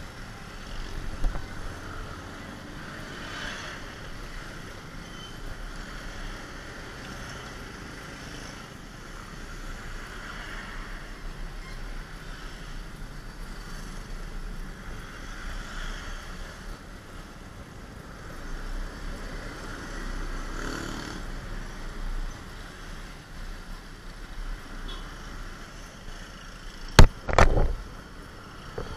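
Steady rushing wind and road noise from a moving motorcycle, rising and falling in slow swells, with two sharp knocks close together near the end.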